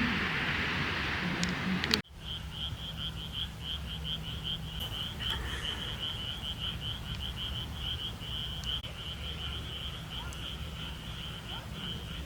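A loud, steady rush of noise cuts off abruptly about two seconds in. After it comes a rapid, even train of short high-pitched chirps, about four to five a second, from a calling animal, over a faint low hum.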